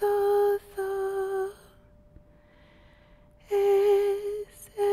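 A woman singing or humming slow, long-held notes on nearly one pitch, lullaby-like. There are two notes, a pause of about two seconds, then the notes start again.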